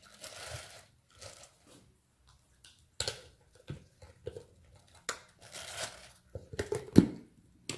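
Fresh chopped vegetables being handled and loaded for the food processor: rustling and crunching with scattered light clicks, and one sharp knock near the end.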